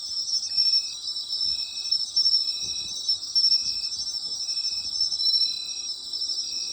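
Night chorus of autumn insects: a dense, high, pulsing trill of many chirping insects, with one lower-pitched note repeating about once a second at an even rhythm.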